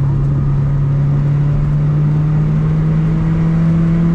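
Mazda MX-5's 1.8-litre VVT four-cylinder engine pulling through its stock exhaust, its note climbing slowly and steadily as the car accelerates, heard from inside the cabin.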